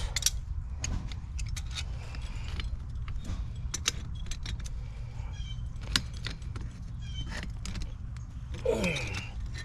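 Metal hand tools clinking and tapping on the fittings of an old backflow preventer as it is being taken off, in scattered sharp clicks over a steady low rumble.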